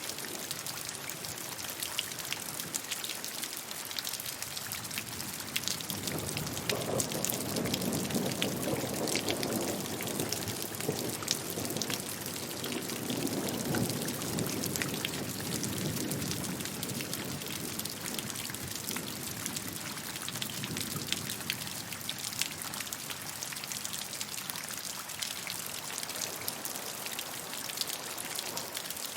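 Steady rain with many individual drops ticking on a surface. From about six seconds in, a low rumble swells under the rain for around ten seconds, then fades.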